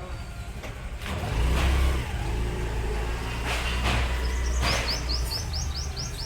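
Tata BS6 tipper truck's diesel engine running, its low rumble swelling as it is revved about a second in and easing off near the end. A quick run of high, evenly repeated chirps comes in near the end.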